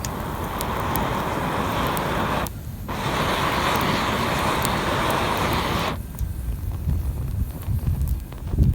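Small twig fire crackling with scattered sharp pops. A steady rushing hiss plays over it in two long stretches, with a brief break after two and a half seconds, and stops suddenly about six seconds in. Low wind rumble on the microphone throughout.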